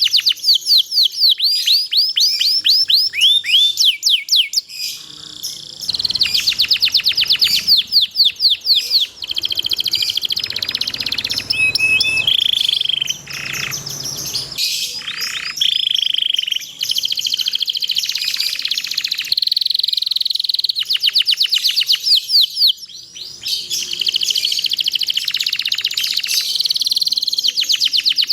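Domestic canary singing a long continuous song: fast trills of rapidly repeated downward-sweeping chirps, broken by a few held whistled notes about halfway through.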